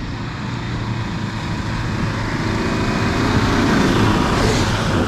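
An off-road 4x4's engine running hard under load, growing steadily louder and loudest about four seconds in, with a brief burst of hiss soon after.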